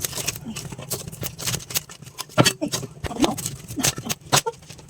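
Freshly lit wood fire crackling and popping as the kindling catches, with irregular sharp snaps, a couple of them much louder.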